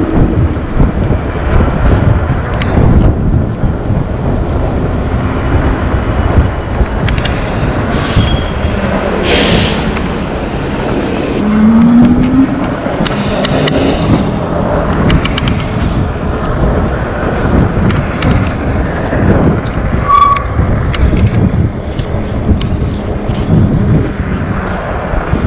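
Wind buffeting the microphone and road noise from a moving electric bike. A short rising whine comes near the middle, and scattered clicks and rattles are heard.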